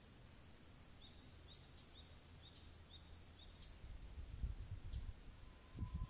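Small wild birds calling faintly: short high chips repeated every half second or so, with a few sharper, higher notes among them. A low rumble grows in the last couple of seconds.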